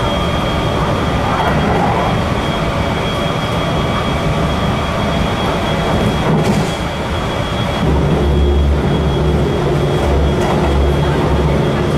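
Running noise heard inside a Kintetsu electric express train at speed: a steady rumble of wheels on rail with a thin high whine over it. About two-thirds of the way in, a deep low rumble joins it, coming in uneven pulses.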